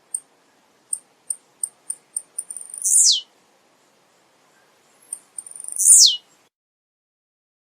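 Male blue-black grassquit (tiziu) singing: each phrase is a quick run of very high ticks ending in a loud, sharply falling note. Two phrases, about three seconds apart.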